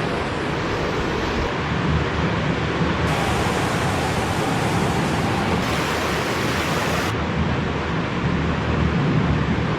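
Rushing floodwater: a loud, steady rush of noise with no breaks. Its character changes abruptly several times where separate clips are joined.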